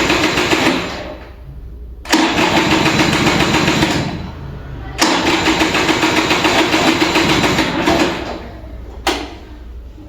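Kinetic Honda 2-stroke scooter's electric starter cranking the cold engine in repeated attempts without it firing: a hard cold start. One crank ends about a second in, two more follow lasting about two and three seconds, and there is a short click near the end.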